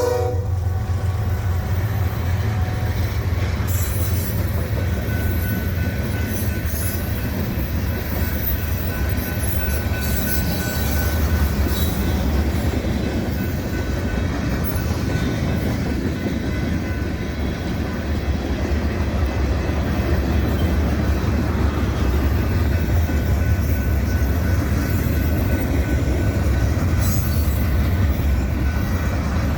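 Freight cars of a mixed freight train rolling past, a steady low rumble of steel wheels on rail, with a faint thin wheel squeal that comes and goes in the middle stretch.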